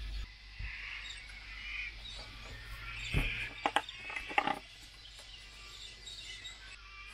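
Birds chirping and calling, with a cluster of sharp clicks and knocks about three to four and a half seconds in.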